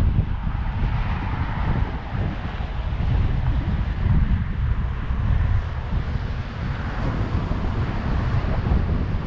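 Wind buffeting the microphone of a camera on a moving bike, a heavy rumble with a rushing hiss above it that swells and fades.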